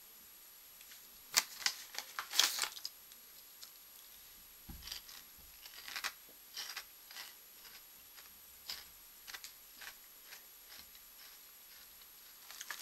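Mouth chewing crunchy corn chips: irregular crisp crackles, the loudest about one and a half and two and a half seconds in, then smaller crunches.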